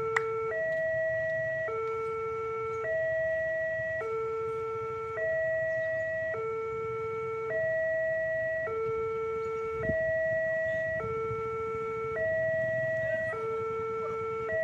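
Railway level-crossing warning alarm sounding its gong-like two-tone signal: a higher and a lower tone taking turns, each held a little over a second, the warning that a train is approaching. A low rumble runs underneath.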